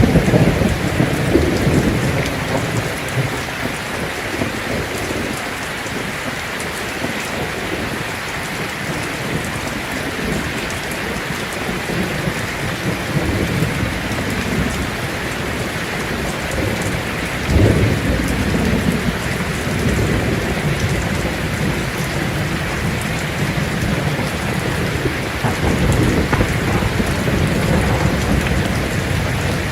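Heavy rain drumming on a tin roof in a steady hiss, with thunder: a rumble dying away in the first few seconds, a sudden clap a little past halfway that rolls on, and another rumble building near the end.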